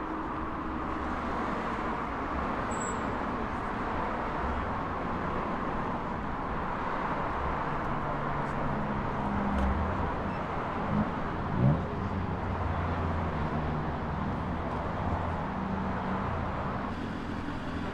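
Street traffic with vehicle engines idling steadily, and two short revs that rise sharply in pitch about eleven and twelve seconds in.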